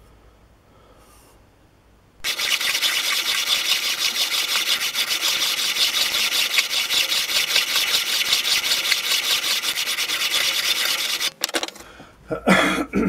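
Steel saw-plate blade being rubbed hard against an abrasive to take its edge down to width, a dense, rapid scraping that starts about two seconds in and stops abruptly about nine seconds later. A few short clatters follow near the end.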